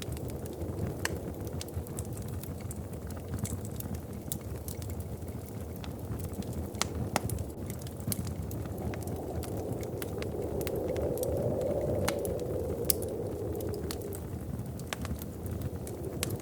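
Wood fire crackling in a fireplace, with sharp irregular pops over a steady low rumble of flames. Partway through, a low rushing swell builds and fades over several seconds.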